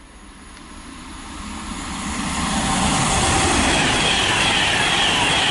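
Virgin Trains Class 390 Pendolino electric train approaching and passing through without stopping. Its rush of wheel and air noise grows louder over about three seconds, then holds steady and loud.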